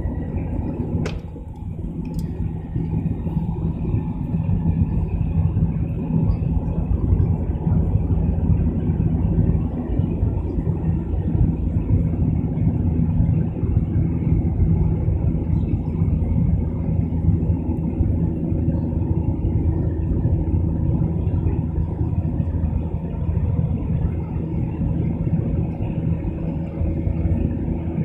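Boeing 737 jet engines heard from inside the cabin as a steady low drone, with two brief clicks about one and two seconds in.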